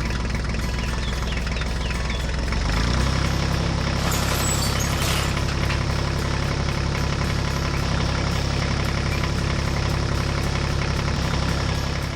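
A heavy construction machine's engine running steadily, picking up to a higher, busier pitch about three seconds in, with a burst of hiss about a second later.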